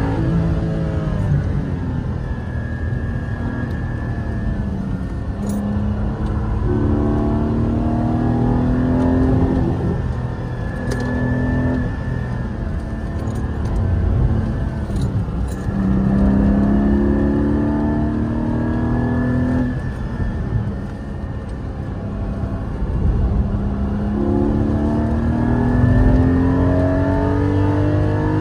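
BMW E36 track car's engine heard from inside the stripped cabin on a fast lap. It pulls up through the revs several times, its pitch climbing steadily for a few seconds and then dropping at each gear change or lift, over a steady rush of tyre and wind noise.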